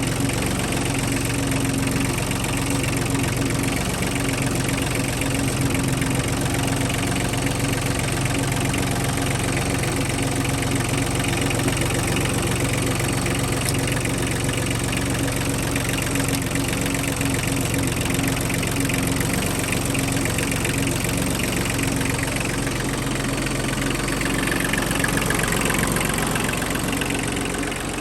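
Kubota B1750's small three-cylinder diesel engine idling steadily, a little louder for a few seconds near the end before easing back.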